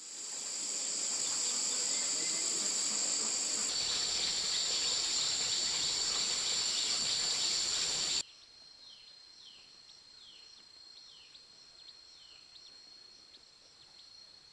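Insects shrilling: a loud, steady, high-pitched drone that drops abruptly to a quieter steady whine about eight seconds in, with short falling chirps repeating about twice a second over it.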